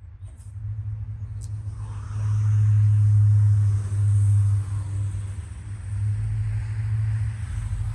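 A low, steady motor rumble, swelling louder about two seconds in and easing back a little after four seconds, with a couple of faint clicks near the start.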